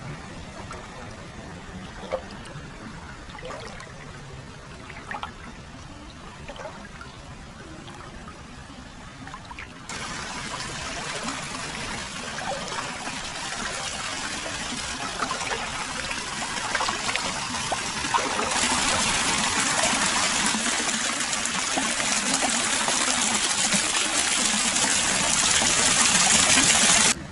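Hot-spring water flowing freely into a large foot bath, trickling and splashing with small drips. The water sound steps up louder about ten seconds in and again a little past halfway, then cuts off suddenly near the end.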